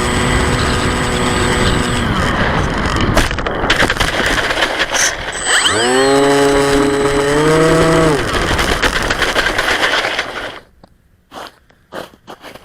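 Radio-controlled flying wing's motor and propeller running at a steady pitch, then cut off about two seconds in, leaving a rush of wind on the microphone. The motor spins up again about six seconds in, holds for two seconds and winds down. Near the end it goes much quieter, with a few scattered clicks and knocks.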